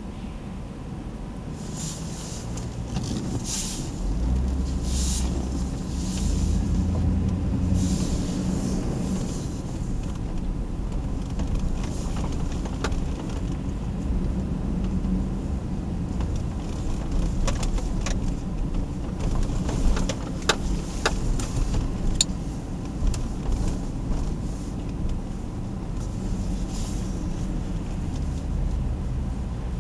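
Hummer H2's V8 engine and road noise heard from inside the cab: a low rumble that swells about four seconds in as the truck moves off, then stays steady while it cruises slowly. A few sharp clicks come about two-thirds of the way through.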